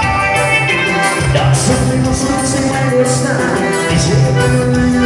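Upbeat Latin-style dance music from a band, with a steady beat and a bass line under sustained melody notes.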